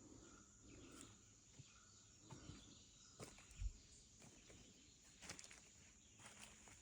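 Near silence: a faint, steady high-pitched insect drone, with a few soft clicks and one brief low thump about three and a half seconds in.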